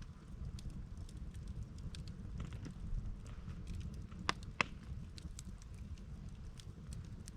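Firewood burning in a campfire: constant small crackles and ticks, with two sharper pops about four and a half seconds in, over a low steady rumble.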